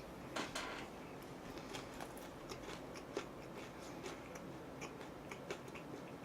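Faint mouth sounds of eating fried chicken and pizza: soft chewing with scattered small clicks.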